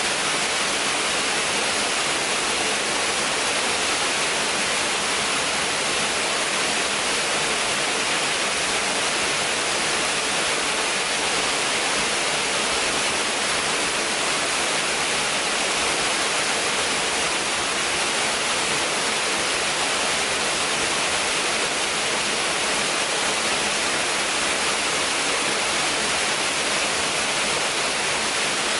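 A waterfall's water crashing down in a steady, unbroken roar, heaviest in the hiss.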